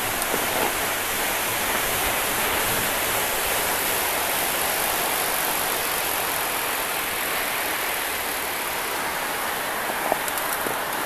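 Wind on the microphone: a steady rushing hiss, with a small click about ten seconds in.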